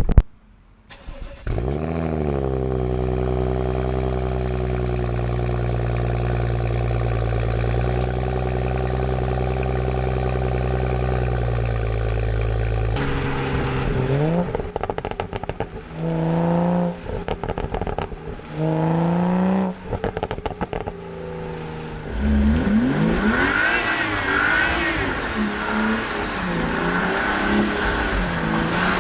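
BMW M235i's turbocharged straight-six, decatted with an aftermarket downpipe, starting about a second and a half in, flaring and settling into a steady high idle. After a cut come two short revs, then the engine revving up and down repeatedly near the end.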